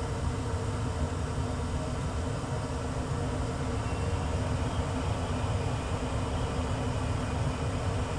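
1994 Tempstar SP80 gas furnace running through its season's first startup: a steady low rumble with a faint even hum.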